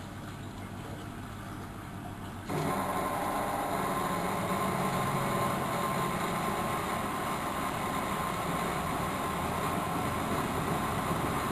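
Miele W763 washing machine running with a steady mechanical hum. About two and a half seconds in, a louder steady sound switches on abruptly and keeps running evenly, with no rise in pitch.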